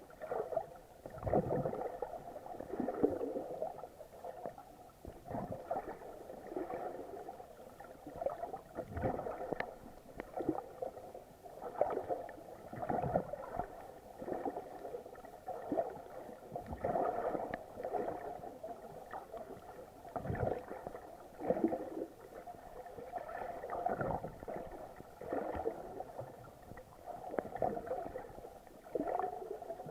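Muffled water sloshing and surging around an action camera in its waterproof housing while snorkeling, in irregular swells every second or two with occasional low thuds.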